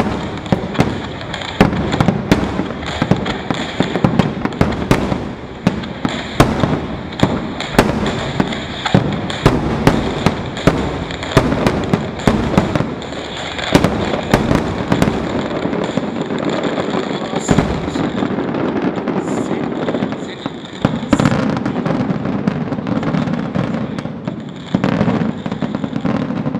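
Ultra-large starmine fireworks barrage: aerial shells bursting in rapid succession, several per second, almost without a break. The sharp bursts thin out in the last few seconds.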